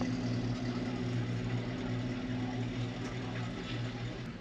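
Heavy truck engine idling steadily, with an even low hum that eases off slightly near the end.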